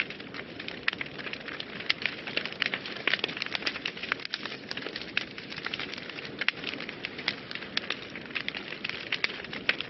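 Wood fire burning in a fireplace, crackling and popping with many quick irregular snaps over a steady hiss.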